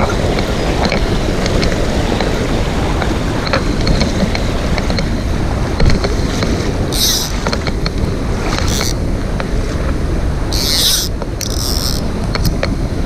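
Mountain stream rushing steadily, with a few short high-pitched chirps about halfway through.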